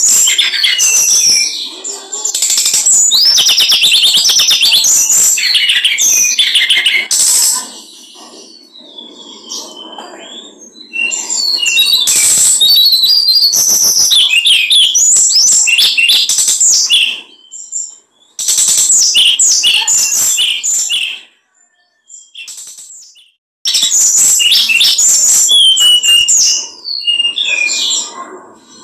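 Small songbird singing loud, rapid, chattering song in several long bursts of a few seconds each, with short pauses between them.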